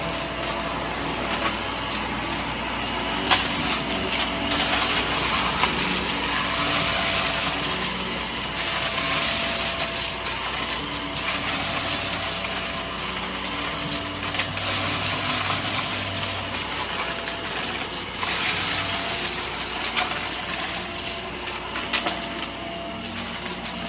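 Vacuum cleaner running steadily with a high whine while sucking up scattered debris in a mess test, the bits clicking and rattling as they are drawn in.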